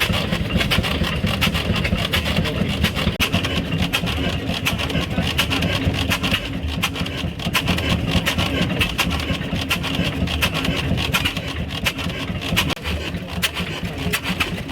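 An engine running steadily, a dense run of sharp beats over a low rumble.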